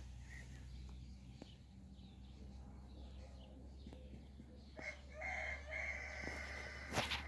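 A rooster crowing once, beginning about five seconds in: a drawn-out call in several parts. Near the end come two loud knocks, over a steady low hum.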